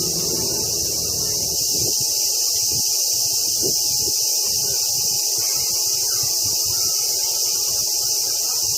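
A chorus of cicadas droning steadily, a continuous high-pitched hiss.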